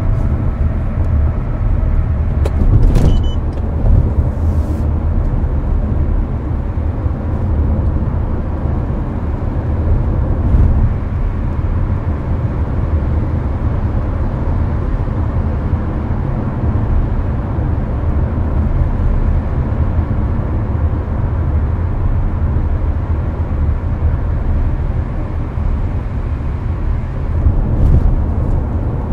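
Cabin noise of a Hyundai Avante cruising on the expressway: a steady rumble of tyres, road and engine, with the air conditioning blowing, and a short click about three seconds in.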